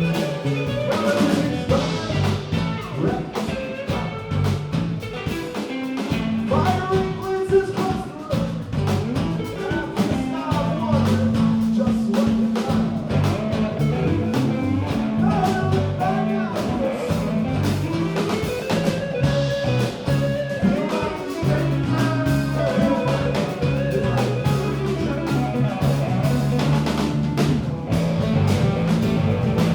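Live band playing a bluesy rock jam: guitar lines over bass and drums.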